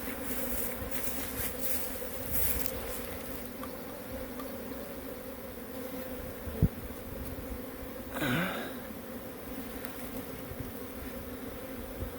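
Honeybees buzzing steadily as they fly in and out of hive boxes after swarming. About eight seconds in a louder buzz swells and fades, dipping and rising in pitch, and a single sharp click comes shortly before it.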